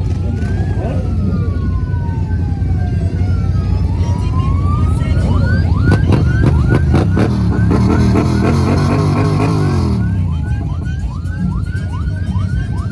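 Electronic siren wailing, sweeping slowly up and down, then switching about five seconds in to quick repeated rising whoops, over motorcycle engines; an engine revs up and back down in the middle.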